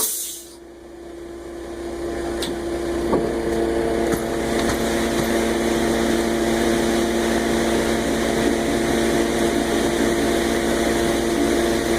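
An engine running at a steady idle, a constant hum that builds up over the first two seconds and then holds level, with a few faint clicks.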